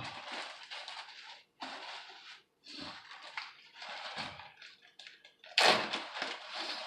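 Irregular rustling and crinkling of gear being handled, in short bursts with brief pauses, with a louder rustle near the end.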